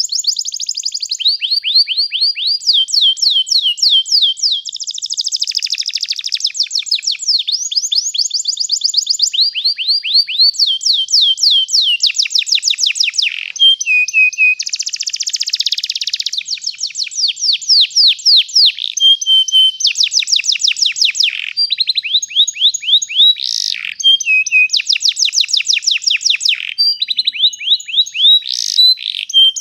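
Domestic canary singing a long, unbroken rolling song. Each phrase is a fast trill of one note repeated many times, and a new trill starts every second or two, some rising and some falling.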